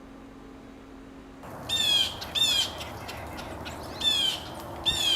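Blue jay giving four harsh, falling jay calls, in two pairs.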